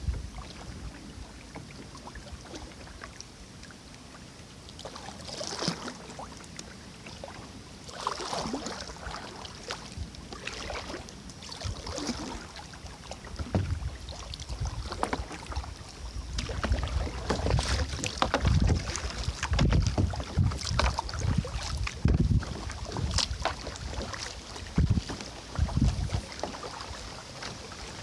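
Kayak paddle strokes splashing and dripping in river water, one every second or two. In the second half, wind buffets the microphone in low rumbling gusts.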